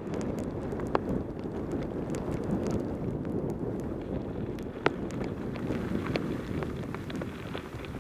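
Wind rushing over a helmet camera's microphone on a fast bicycle descent in pouring rain, with many scattered sharp ticks throughout, the loudest about a second in and just before the five-second mark.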